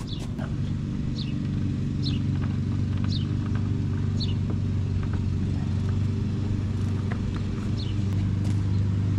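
A vehicle engine running steadily with a low hum that slowly grows louder, while a bird gives short high falling chirps about once a second.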